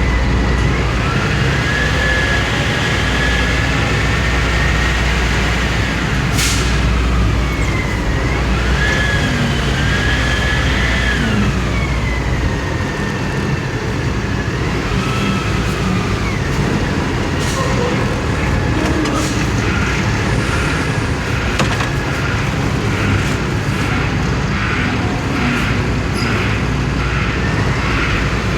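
Ottawa shunt truck's diesel engine running with a steady low rumble, and a whine over it that rises and falls in pitch several times.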